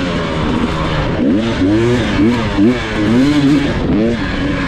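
Dirt bike engine revving up and down over and over, its pitch rising and falling in quick surges about twice a second as the rider works the throttle.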